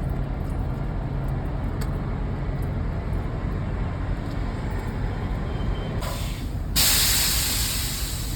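Steady low rumble of diesel trucks idling. About six seconds in comes a short hiss, then a loud burst of compressed-air hiss from truck air brakes that fades over a second or two.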